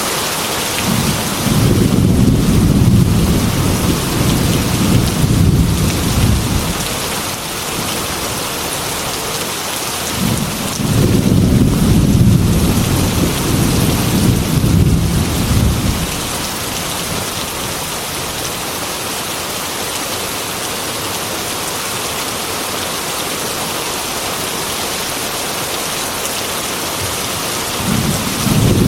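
Heavy rain falling steadily on window glass, with two long rolls of thunder of about five or six seconds each, and a third rumble starting near the end.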